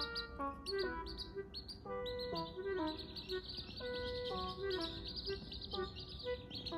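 Chicks peeping in quick, high, continuous chirps, over background music made of sustained notes.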